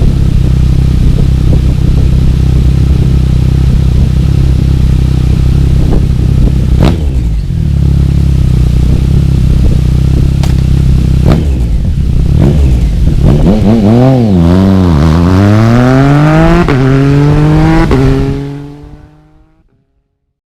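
Triumph Speed Triple R's three-cylinder engine through a full Arrow exhaust with the baffle removed, loud. It runs steadily with a few sharp pops, then revs up and down from about two-thirds in and climbs steadily in pitch before fading out near the end.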